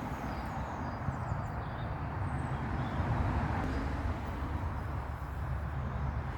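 Outdoor ambience: a steady low rumble with a few faint bird chirps high above it.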